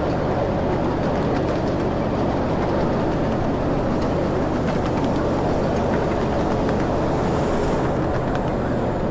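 Steady rumble of a ride train in motion, the running of the wheels on the track over a low steady engine hum, with faint scattered clicks.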